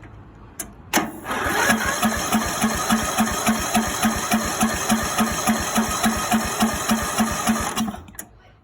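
Electric starter cranking the mower's 17 HP Briggs & Stratton Intek OHV engine, which turns over without firing. It starts about a second in and runs for about seven seconds, a steady whine with a regular chug about three or four times a second, then stops near the end.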